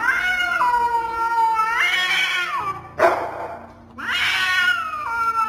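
A cat yowling: two long drawn-out calls whose pitch steps down and back up, with a short sharp cry between them.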